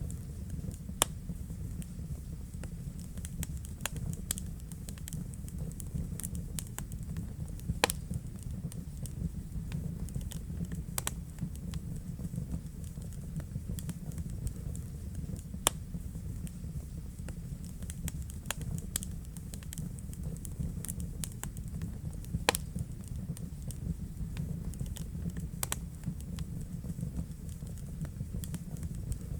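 Wood fire crackling in a fireplace: frequent small sharp crackles with several louder pops spread through, over a low, steady rumble.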